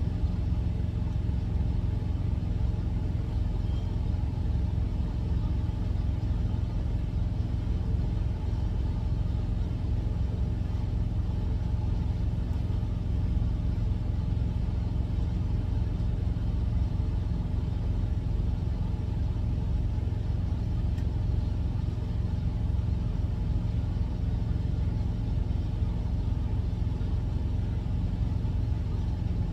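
Steady low rumble of an idling truck engine, unchanging throughout.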